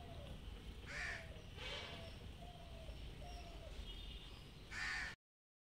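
Three short harsh bird calls, crow-like caws, about a second in, near two seconds and just before the end, over a faint steady background. The sound then cuts off abruptly.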